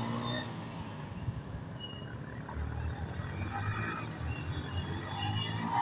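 Motorcycle engines running, a low rumble that rises and falls.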